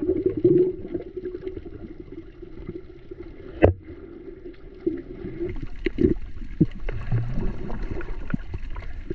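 Sea water gurgling and sloshing around a snorkelling swimmer, muffled and low, with a few sharp clicks. The loudest click comes about three and a half seconds in.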